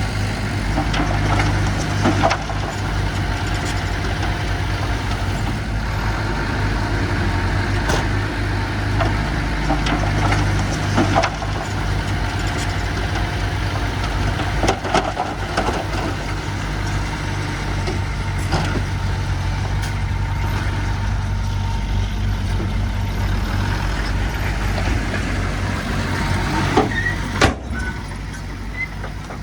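Diesel engine of heavy earth-moving machinery running steadily, with occasional sharp knocks and clanks.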